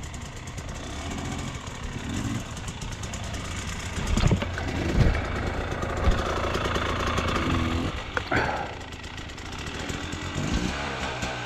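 Dirt bike engine running and revving on a rough trail, with a few sharp knocks about four to six seconds in and a quick rev rising and falling at about eight seconds.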